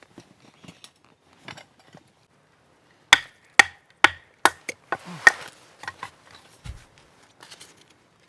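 Firewood being chopped into kindling: about six sharp wooden knocks, roughly two a second, starting about three seconds in, followed by a few fainter taps.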